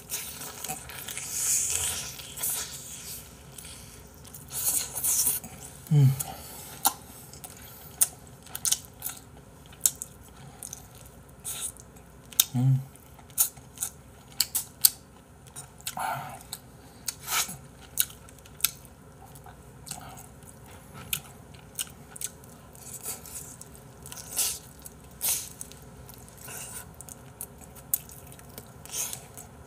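Close-miked chewing and biting of bone-in braised chicken, with many short wet mouth clicks and smacks. Two short low hums come about six and twelve seconds in.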